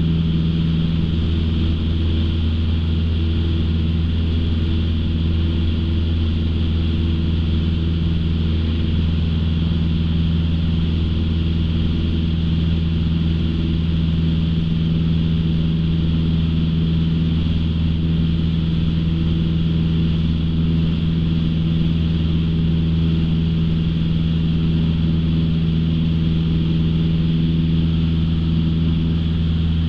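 Light aircraft's piston engine and propeller droning steadily in cruise, heard from inside the cockpit as an even low hum with a hiss above it.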